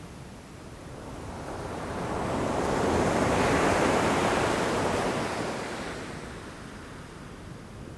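Ocean waves breaking against rocks: one wave swells up, crashes loudest about halfway through, and washes back down.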